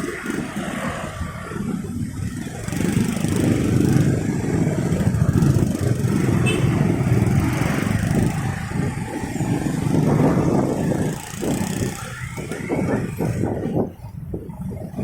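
Motorcycle running in heavy city traffic, its engine mixed with the rumble of the vehicles around it. The rumble swells for several seconds in the middle and eases near the end.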